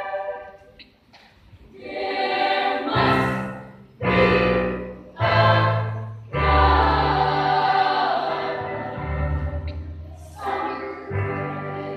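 Children's choir singing, with a brief lull about a second in before the voices swell back in a series of held phrases. Low sustained notes start abruptly under the singing a few seconds in.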